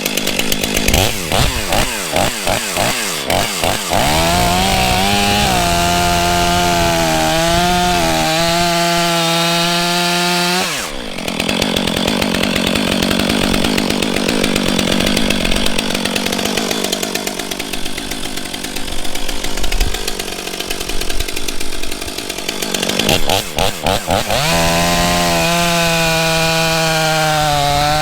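Stihl MS 500i fuel-injected 80 cc two-stroke chainsaw bucking a log into rounds. Its pitch sweeps up and down as the throttle is worked between cuts, then holds at high revs, and it goes rougher and noisier during a long stretch in the middle.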